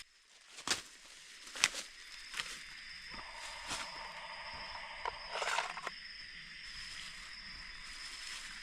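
Rainforest night ambience: a steady high-pitched chorus of calling frogs and insects, with a few sharp taps scattered through it and a brief louder call a little past the middle.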